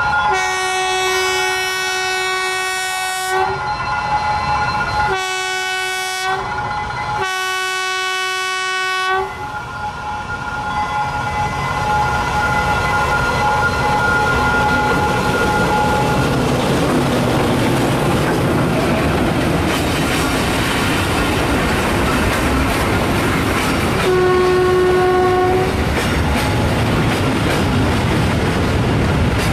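D9E diesel locomotive sounding its horn three times as it approaches the crossing: a long blast, a short one, then a longer one. It then passes close by with its freight wagons rumbling and clattering over the rail joints, and sounds one more short blast about 24 seconds in.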